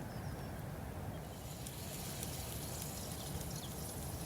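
Steady, low, rumbling outdoor background noise at a river, with faint water sounds.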